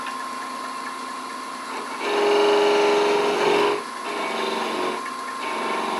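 Wood lathe running with a steady hum while a parting tool cuts into the spinning oak workpiece. The cut is loudest from about two seconds in until nearly four seconds, a steady whine, then continues more lightly.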